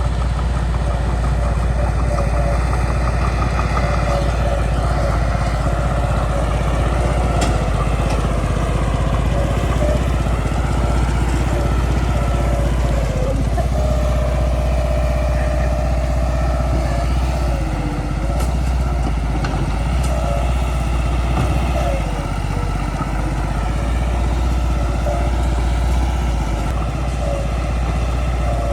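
Bulldozer's diesel engine running steadily under load, its pitch rising and falling as it pushes earth, with a brief steady whine about halfway through.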